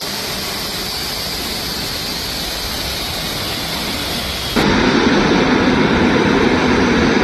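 Steady rushing noise of a light aircraft, its engine and airflow blending into an even hiss. About four and a half seconds in, it cuts abruptly to a louder, deeper rush of the same kind.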